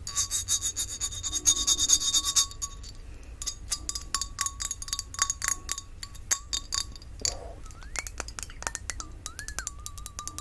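Fingertips and nails tapping a glass perfume bottle: a fast flurry of crisp clinks for the first couple of seconds, then slower, scattered taps. A thin, wavering high tone sounds underneath for much of the time.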